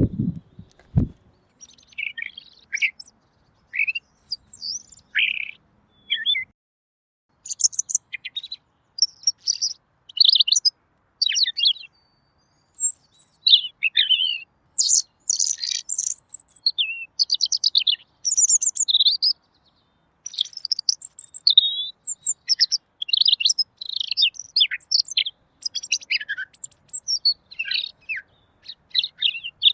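Pekin robin singing a long run of clear, rapid, varied whistled phrases and trills with short pauses between them, with a brief low thump right at the start.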